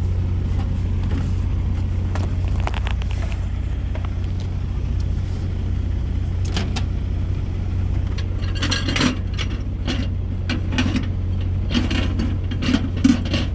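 A steady low hum fills the truck cab, with scattered clicks, clatter and scrapes from the microwave and food containers being handled, busiest in the second half.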